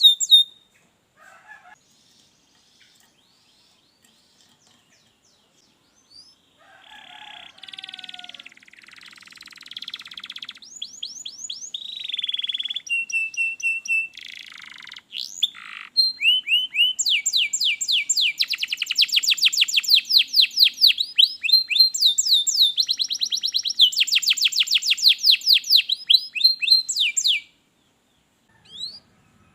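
Domestic canary singing: after a few quiet seconds, a song of rapid trills and fast repeated high notes starts about six seconds in and builds in loudness, and it cuts off suddenly near the end. This is a canary tutor song of the kind played to prompt canaries to sing.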